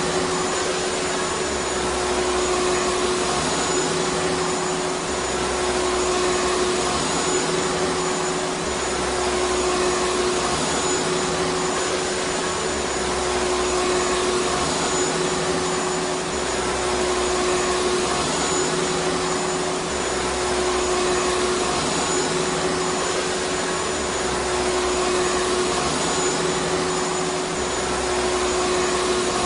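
Vacuum cleaner motor running continuously: a steady whine over rushing air, with the level swelling and easing slightly every few seconds.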